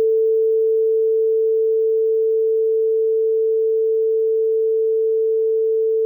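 Simulated buzzer of a microcontroller microwave-oven program sounding one steady, pure electronic tone: the cook timer's alert.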